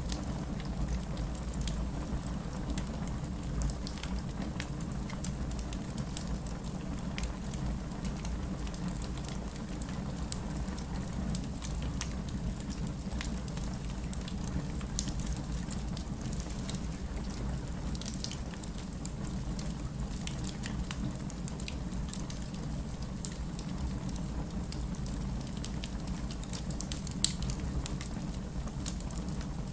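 Wood fire burning, with a steady low rumble and scattered sharp crackles and pops throughout; two louder pops come about halfway through and a little before the end.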